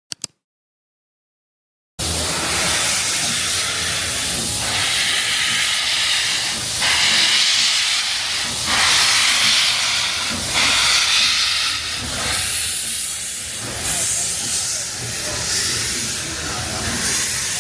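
Steam locomotive releasing steam: a loud, steady hiss that swells every couple of seconds, starting suddenly about two seconds in.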